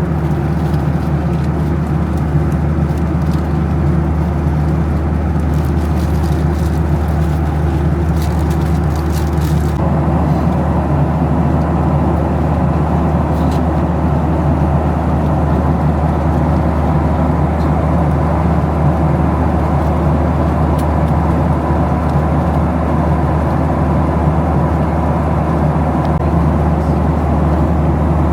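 Steady cabin drone of a Boeing 737-700 in flight: the hum of its CFM56-7B turbofans and the rush of air past the fuselage, heard from inside the cabin. A few faint ticks come in the first ten seconds.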